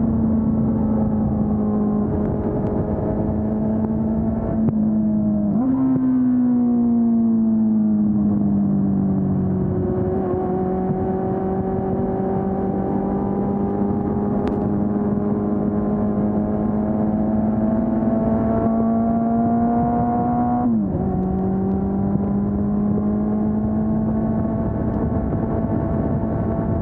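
Honda CB400 Super Four's inline-four engine, on its stock exhaust, running under way with a steady, even note. About five or six seconds in the pitch jumps up and then sinks over a few seconds. It then climbs slowly and drops suddenly near twenty-one seconds before climbing again.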